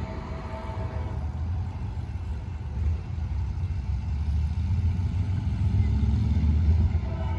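Diesel freight locomotive approaching, a low engine rumble that grows steadily louder.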